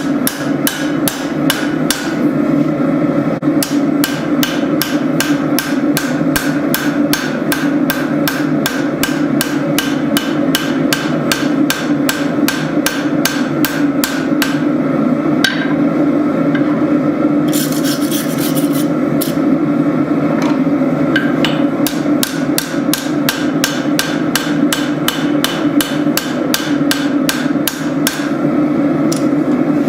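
Hand-hammer blows on hot spring steel at the anvil, a steady rhythm of about three strikes a second with a short break about two-thirds of the way through, over a steady low drone.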